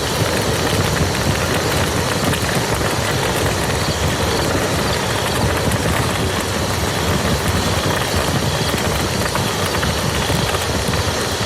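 Steady rain falling on a muddy field: a dense, even hiss of countless drops that does not let up.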